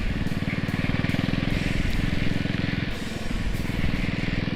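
Motorcycle engine running under way, a fast steady firing pulse that eases briefly about three seconds in and then picks up again, with wind rush over the microphone.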